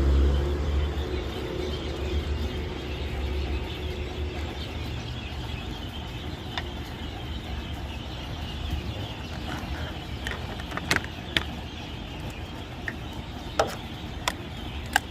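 A motor vehicle's engine running nearby, a low rumble that fades over the first few seconds into a steady background, with several sharp clicks and taps in the last few seconds.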